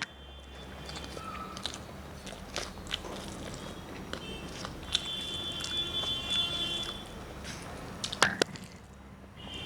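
A person chewing and eating a meal of rice and fried fish, with small clicks and taps throughout and a sharper clatter of clicks about eight seconds in.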